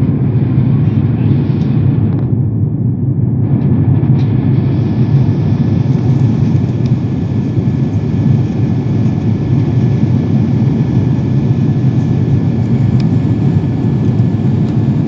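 Steady low drone of an airliner's cabin in flight: engine and airflow noise heard from inside the cabin.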